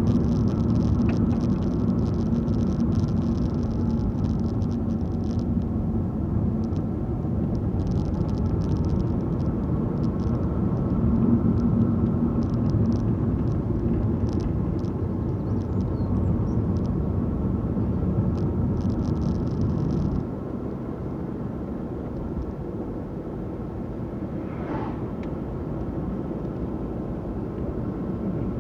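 Car on the move: steady engine and road rumble, which drops quieter about twenty seconds in.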